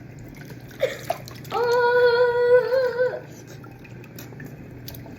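A person hums one held note for about a second and a half, its pitch wavering slightly, over a faint steady rush of running tap water with a few small splashes and knocks just before it.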